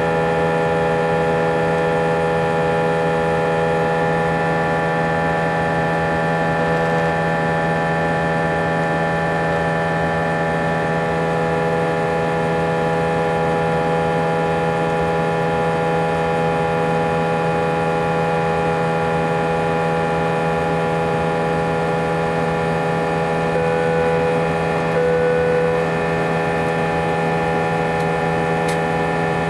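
Airbus A320 engine noise heard inside the cabin: a loud, steady drone made of a low hum and many held tones. Passengers took the noise as a sign that something was not right, and the uploader felt strong vibration with it. Two short higher tones sound briefly a little before the end.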